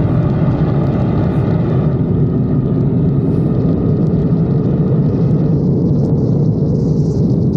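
Drag-racing cars' engines running hard down the strip after the launch, heard over a steady low rumble; the engine note fades out about five and a half seconds in as the cars reach the far end.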